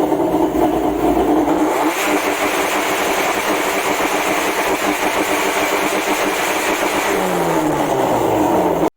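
Car engine running loudly, with its pitch gliding down near the end as it eases off. The sound cuts off abruptly just before the end.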